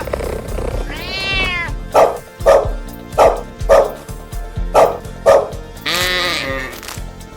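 A dog barking six short barks, about two a second, over background music, after a single drawn-out meow about a second in; near the end a bleating call begins.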